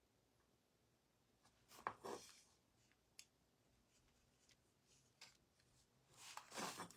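Near silence with a few faint rustles and taps from painting at close range: a short scratchy rustle about two seconds in, a couple of single light clicks, and a longer rustling near the end.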